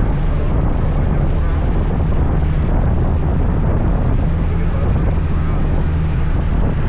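Riding noise on a scooter: wind rushing over the microphone, with the scooter's engine and tyres running steadily underneath.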